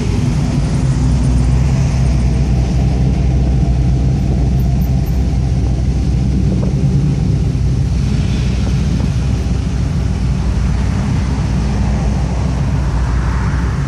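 Classic car engines running steadily as cars cruise slowly past, a continuous low exhaust note.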